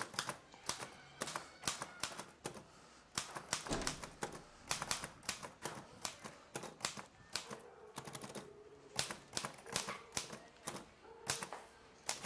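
Remington Portable manual typewriter being typed on: quick, irregular runs of sharp key strikes, several a second, with one heavier knock about four seconds in.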